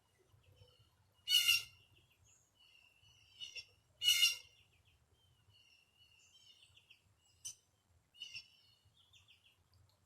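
A mockingbird singing a varied run of chirps and trills, with two loud, harsh squawks about one and four seconds in.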